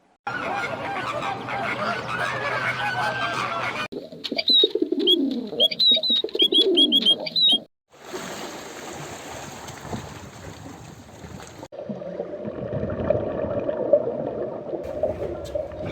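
Birds calling in several short clips that cut abruptly one to the next. The loudest stretch, about four to eight seconds in, holds repeated calls that fall in pitch, mixed with high, short chirps.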